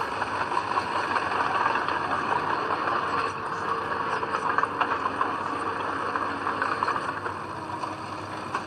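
Heavy diesel earthmoving machinery running steadily, with a dense rattling clatter over the engine note.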